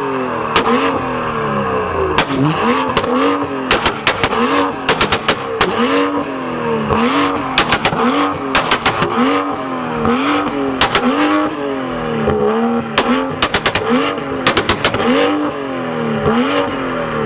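Car engine revved hard again and again, its pitch climbing and dropping about once a second, with sharp exhaust pops and bangs between the revs.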